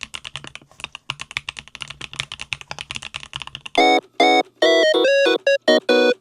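Typing on a Swagkey Eave65 PLUS mechanical keyboard with Gateron Smoothie switches: a fast, continuous run of keystrokes. About four seconds in, loud music takes over, made of short chopped chords of a piano-like keyboard instrument.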